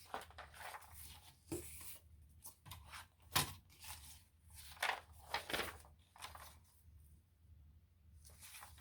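Scrapbook paper being handled and torn: irregular rustling and crinkling with several sharper rips in the middle, growing quieter near the end.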